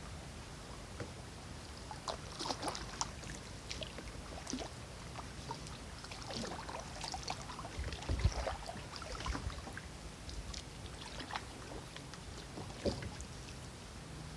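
Kayak paddle strokes in river water: irregular small splashes and drips, the biggest about eight seconds in, over a steady low hum.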